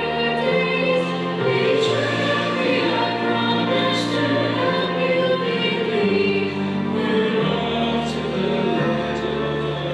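Music: a choir singing a slow song over held accompaniment chords.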